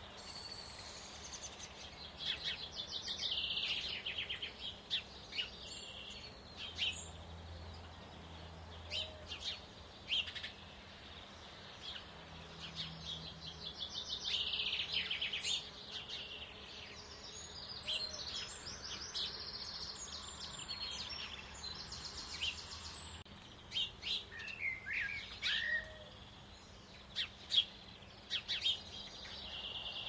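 Small birds chirping and calling in short bursts and trills, with scattered sharp clicks and taps between the calls.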